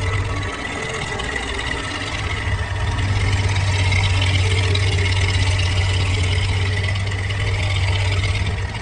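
Tractor engine running steadily under load, a deep drone that eases off about half a second in and picks back up from about three seconds in.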